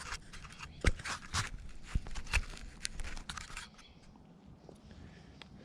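Irregular sharp crackles and snaps from the twigs and sticks of a small campfire that is just catching. They thin out after about three and a half seconds, leaving a faint hiss.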